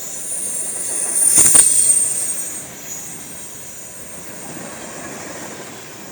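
Norfolk Southern train's railcars rolling past with high-pitched wheel squeal over a steady rumble. A sharp clank comes about a second and a half in at the loudest point, then the rumble slowly fades.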